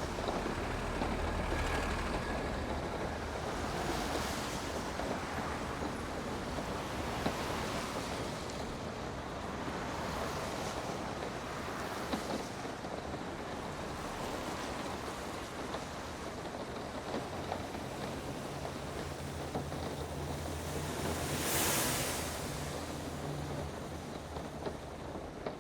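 Motorcycle riding on a rain-wet road: a steady hiss of tyres and spray with a low engine hum and wind on the microphone. A louder whoosh swells near the end.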